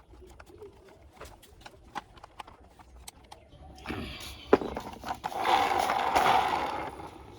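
Small plastic toy parts clicking and knocking as they are handled, with one sharp knock about halfway through, then a louder rattling, scraping noise lasting about a second and a half.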